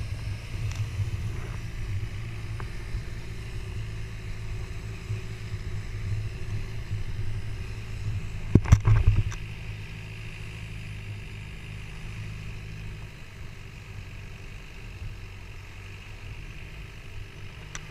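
Motorboat engine running steadily with a low drone, with a brief cluster of loud knocks about halfway through.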